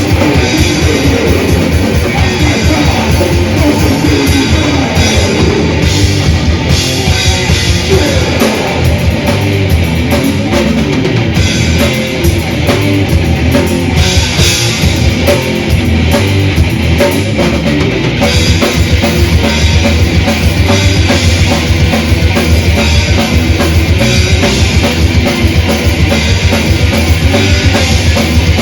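Death/thrash metal band playing live: distorted electric guitars and bass over heavy drum kit with rapid, closely packed kick drum hits, an instrumental passage without vocals.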